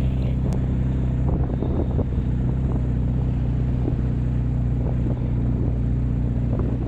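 BMW R1200RT's flat-twin engine running steadily at low revs as the motorcycle rolls slowly.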